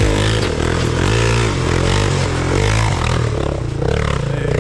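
A motorcycle engine revving, its pitch rising and falling several times in a row over a steady low running note.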